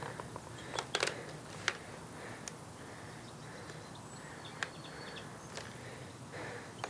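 Quiet open-air ambience with faint, repeated bird or insect chirps and a few scattered sharp ticks, loudest about a second in.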